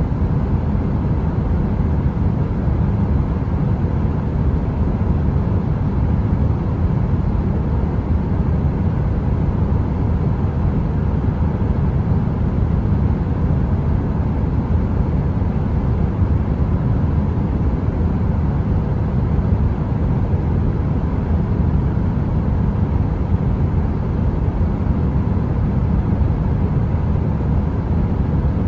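Heater running: a steady, deep rush of noise, even throughout, with a faint steady hum above it.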